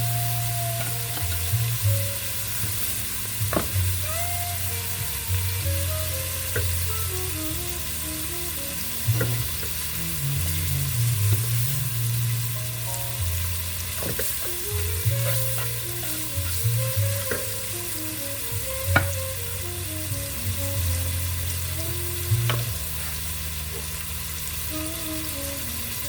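Chicken frying in butter in a pan: steady sizzling, with scattered clicks and taps of a utensil against the pan. Music with a steady bass line plays underneath.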